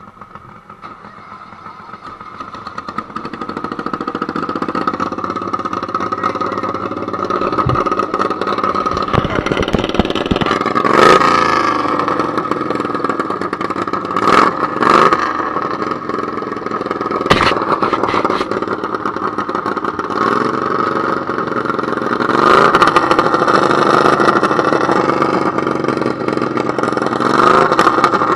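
A garden tractor pulling engine runs hard under load during a hook, growing louder over the first few seconds. Its revs surge upward several times, with a few sharp cracks along the way.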